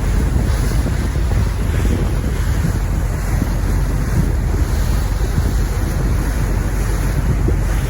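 Wind buffeting the microphone over the wash of the sea: a loud, steady rumble with no break.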